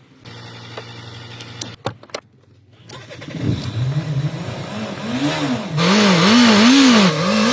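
Fiat Multipla engine being started after an oil change, then revved up and down over and over, its pitch swinging and growing louder.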